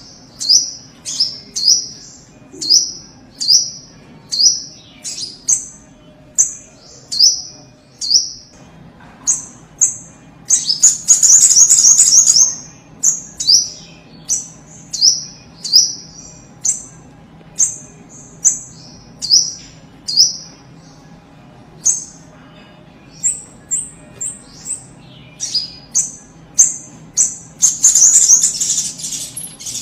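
Little spiderhunter (sogok ontong) calling vigorously: a long series of short, high, slurred chip notes, about two a second, broken twice by a faster, louder run of notes about eleven seconds in and near the end. A faint low hum lies underneath.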